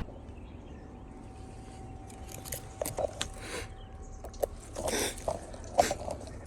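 Quiet outdoor background with scattered rustles and clicks starting about two seconds in, over a faint steady high tone.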